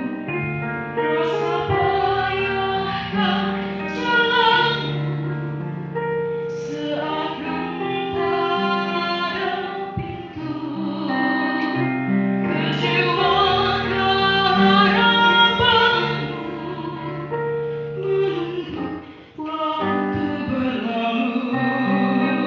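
A young woman singing solo in a pop-opera style over instrumental accompaniment, with vibrato on the held notes.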